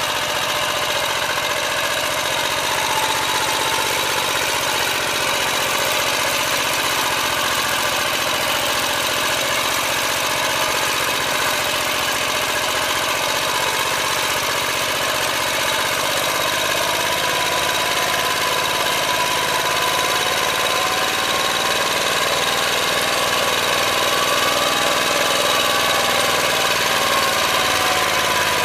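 Motor Sich walk-behind tractor's engine running steadily under load while it ploughs, with a high whine that wavers slightly in pitch in the second half.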